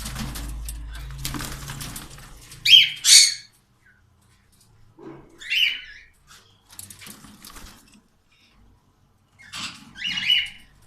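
Cockatiels giving harsh, screechy calls: a double call about three seconds in, another near the middle, and one more near the end. A steady rushing noise fills the first two seconds before the calls.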